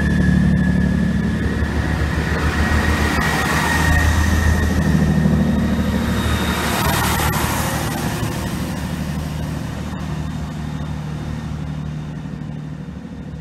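Class 166 Turbo diesel multiple unit running past and drawing away: a steady low diesel engine and wheel rumble that swells about four seconds in, then fades as the train recedes, with a thin high squeal in the first second.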